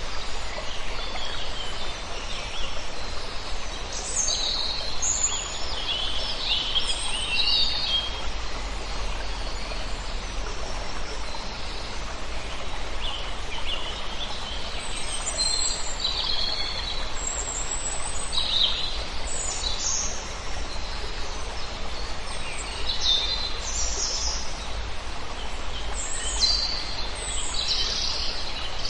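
A flock of small birds calling in short, high chirps and twitters that come in scattered clusters, over a steady low rumble.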